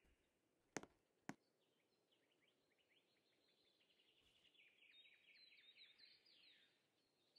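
Faint bird song: a long trill of short, quick, downward-sweeping high notes that speeds up and grows louder before stopping. Two sharp clicks come about a second in.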